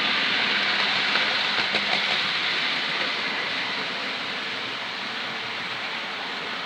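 Model locomotive running on a model railway track: a steady whirring and rolling noise from the motor and wheels, easing a little after about three seconds.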